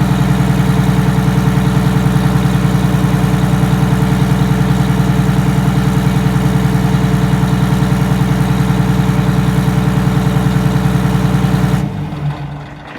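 Detroit Diesel 6V92TA two-stroke V6 diesel idling steadily with an even pulsing beat just after a cold start, running smoothly without rough running. About twelve seconds in it is shut off and the sound falls away as it winds down.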